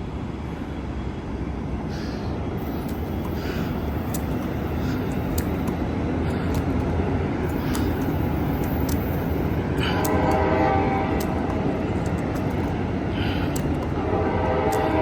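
Amtrak Capitol Corridor passenger train pulling out, with a steady rumble of locomotive and cars that slowly grows louder. The multi-note horn sounds for about a second and a half around ten seconds in, and again near the end.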